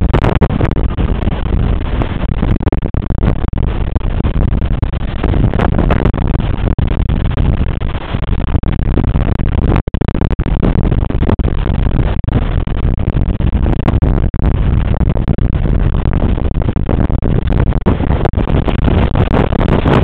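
Strong wind buffeting the microphone over the constant rush of waves and sea spray in heavy ocean weather, loud and unbroken.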